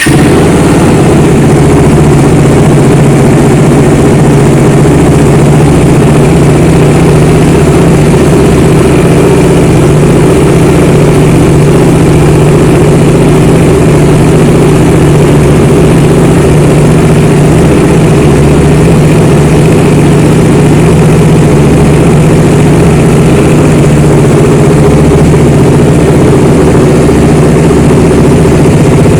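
Motorcycle engine running steadily, very loud and close, with an even drone that starts abruptly and holds without change.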